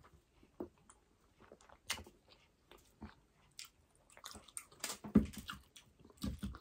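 Close-miked chewing and wet mouth sounds of people eating burger steak and rice by hand: scattered soft clicks and smacks, loudest about five seconds in and again near the end.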